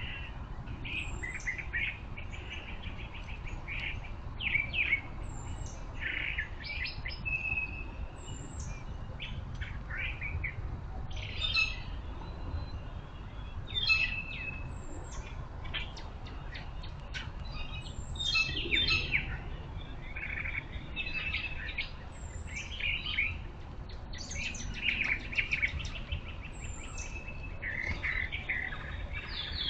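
Songbirds chirping and calling in a backyard: many short, high chirps and quick trills overlapping one another throughout, over a steady low rumble.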